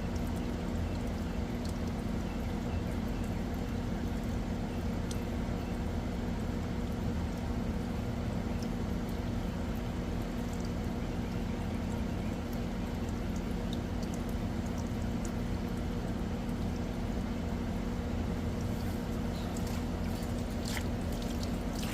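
Goodman outdoor AC condensing unit running steadily: a constant electric-motor hum under an even rush of noise, with a few clicks near the end.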